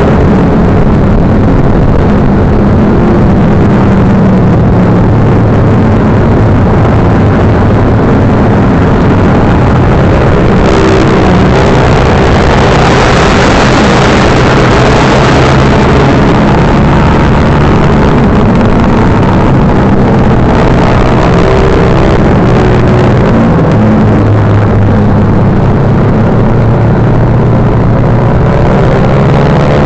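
Motorcycle engine running, its pitch shifting up and down as it changes speed, over a loud, steady rush of noise.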